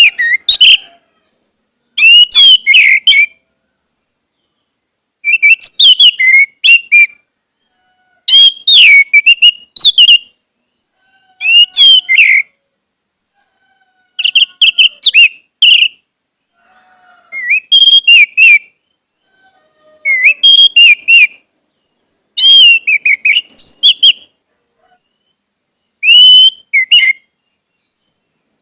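Orange-headed thrush singing: about ten short, varied whistled song phrases, each a second or two long, with brief pauses between them.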